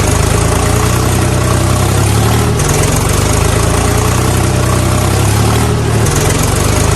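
Tractor engine running steadily at idle with a low, even hum; its pattern shifts slightly about every three seconds.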